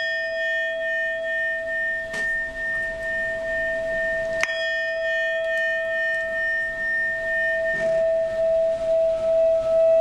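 Tibetan singing bowls ringing with a steady, pulsing tone, struck again about two seconds in and more strongly about four and a half seconds in, each strike adding ringing overtones. A higher bowl tone joins near the end.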